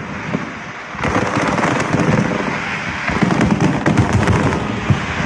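Fireworks display: many shells bursting in a dense run of crackles and low booms. It is a little quieter for about the first second, then fills back in.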